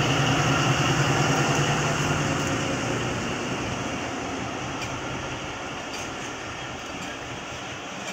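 Diesel locomotive engine running as it pulls past, its low drone loudest at first and fading over the first few seconds, then passenger coaches rolling by on the rails with a steady rumble.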